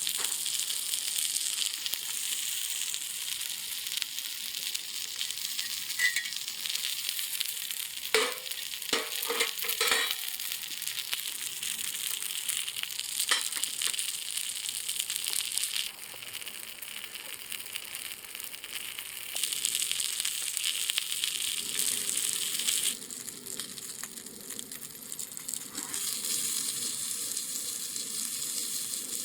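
Steady sizzling over a wood fire, the sound of food frying in a small pan. A few sharp clicks come about eight to ten seconds in, and another shortly after.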